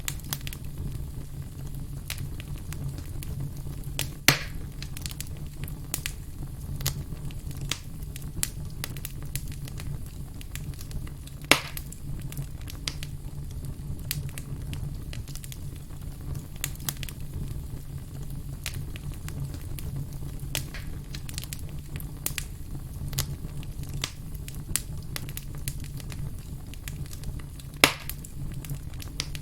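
Wood campfire crackling steadily with a thick scatter of small snaps over a low rumble. Three sharp, loud pops stand out, about four seconds in, at around eleven and a half seconds, and near the end.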